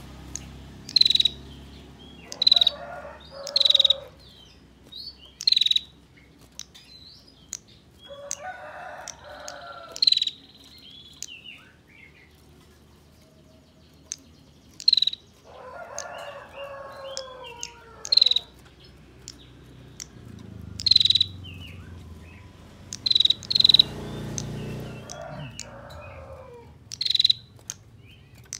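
A female prinia (prenjak) giving short, sharp, high chirps, singly or two or three in quick succession. Roosters crow several times in the background.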